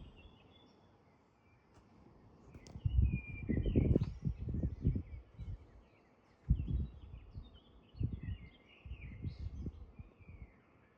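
Gusts of wind buffeting the microphone in short irregular low rumbles, with small birds chirping and twittering in the background.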